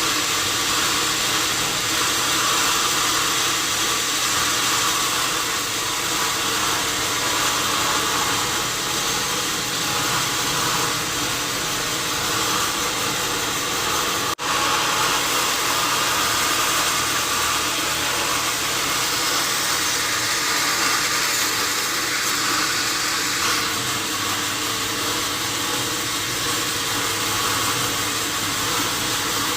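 Sawmill saw running and cutting through a wadang wood log, a steady loud whirring hiss with motor hum. There is a momentary break about halfway through.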